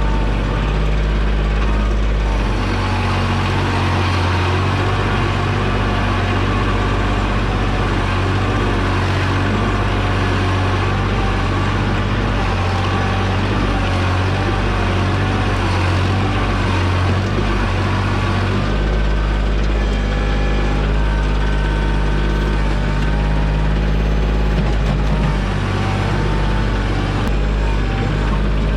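Kioti compact tractor's diesel engine running steadily while it works the backhoe, its note shifting a couple of times as the load changes.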